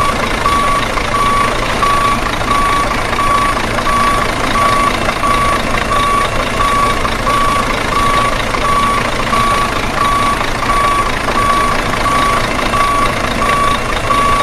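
Truck reversing alarm sounding a steady train of evenly spaced single-tone beeps over the truck's engine running.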